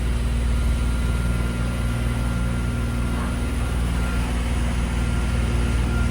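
A boat's inboard engine running steadily under way, a low even hum, with a faint thin high whine that drops out about four seconds in.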